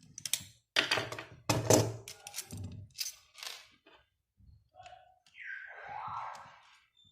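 A series of sharp knocks and clicks, the loudest just under two seconds in, followed by a short hissing whoosh near the end.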